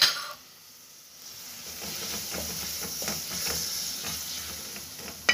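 Chopped fresh tomatoes sizzling in hot oil with onion and spice paste in an aluminium pot, stirred with a wooden spatula. The sizzle and the scraping strokes of the spatula pick up about a second and a half in. A sharp click right at the start and again at the end.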